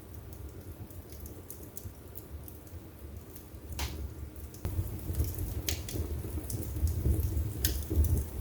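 Wood fire burning in a fireplace: a steady low rumble of flames with scattered sharp crackles and pops, the flames growing louder about halfway through.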